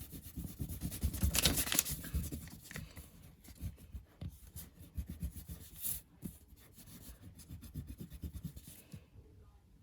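A pen or pencil scratching and rubbing on paper in short, irregular strokes, busiest in the first couple of seconds, then fainter until it stops about nine seconds in.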